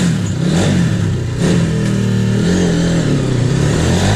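A vehicle engine being revved several times, its pitch rising and falling with each blip of the throttle.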